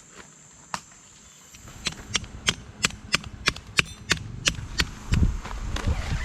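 A quick run of sharp knocks, about three a second for around three seconds, followed by a low rumble near the end.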